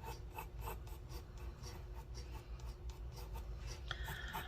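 Graphite pencil sketching on paper: a run of short, repeated strokes as a shape is drawn.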